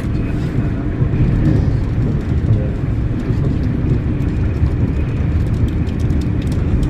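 Steady low rumble of a passenger train running at speed, heard from inside the carriage, with a few light ticks near the end.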